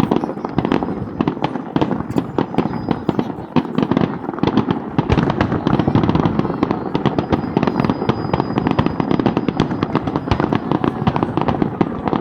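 Fireworks display: aerial shells bursting in a rapid, continuous barrage of bangs and crackles with no pause.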